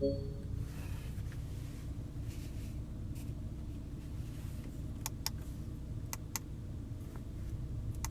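Sharp single clicks of Porsche Cayenne S centre-console switches being pressed: a pair about five seconds in, another pair about a second later, and one more at the end. A short beep sounds right at the start, and a steady low hum runs underneath inside the cabin.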